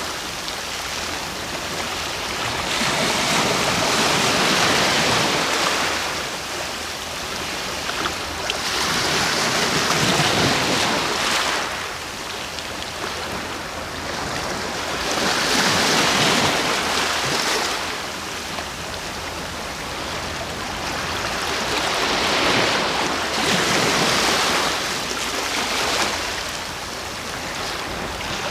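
Ocean waves breaking and washing on the shore, swelling and falling back in a slow rhythm, roughly one surge every six seconds.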